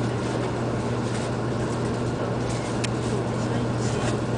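Steady hum and rumble inside a Shinkansen-type train car on the Hakata-Minami Line, with a constant low drone and no distinct events.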